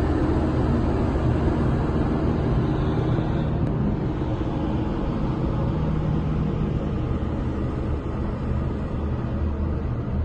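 Steady low rumble and hiss inside a moving Disney Skyliner gondola cabin, with no distinct bangs.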